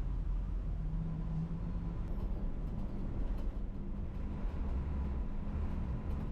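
Non-air-conditioned city bus running: a steady low engine and road rumble, with faint light rattles.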